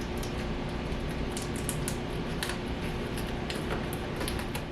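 Scattered light clicks and scrapes of parts being handled and forced together while assembling a portable clothes dryer, over a steady hum.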